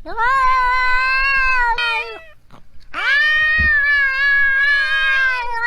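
A domestic cat yowling in two long, drawn-out, wavering wails, the second starting about three seconds in after a short pause.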